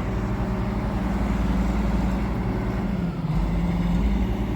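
Large crane's diesel engine running steadily under load as it lifts a building, its pitch dipping slightly about three seconds in.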